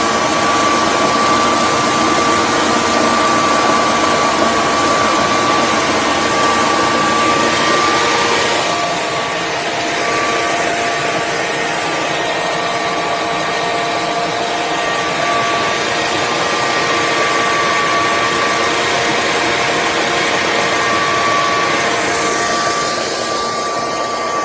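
Generac Guardian home standby generator running: a steady loud mechanical drone with a high whine. It eases a little about nine seconds in and dies away at the very end.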